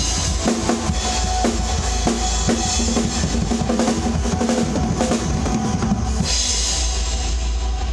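Drum kit played along to the song's track: bass drum, snare and cymbals in a steady rhythm, with a cymbal wash swelling about six seconds in.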